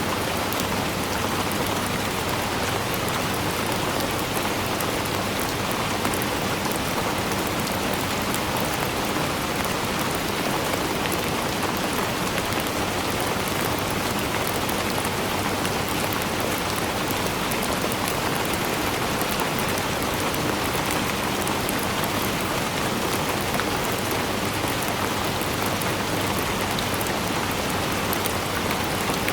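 Steady rain falling on surfaces, a dense even hiss with many small individual drop patters, holding the same level throughout.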